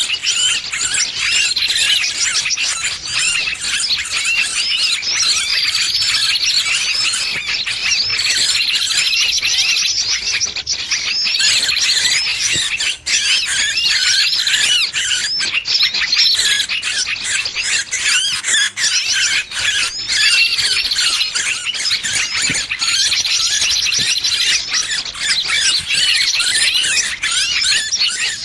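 Bird-lure recording of a trapped small bird's distress calls: dense, overlapping high-pitched squeals and chattering calls that go on without a break.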